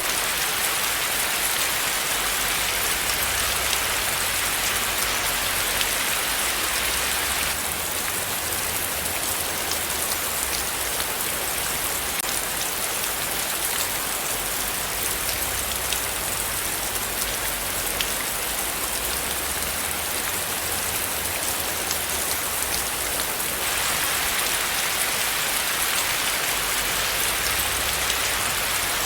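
Steady rain falling, a dense even hiss with fine drop patter throughout; it softens slightly in the upper range between about 8 and 24 seconds in.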